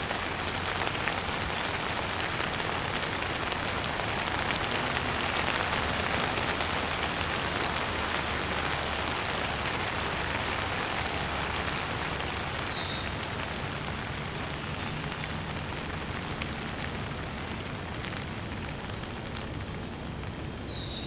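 Steady rain falling, with scattered individual drops. A bird gives a short chirp a little past halfway and again near the end.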